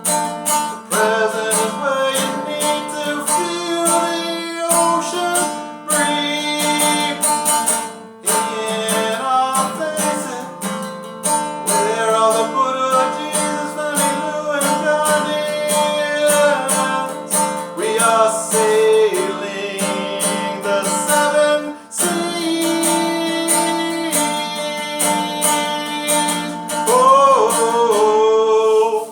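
Acoustic guitar strumming chords in a steady rhythm. It stops abruptly at the very end.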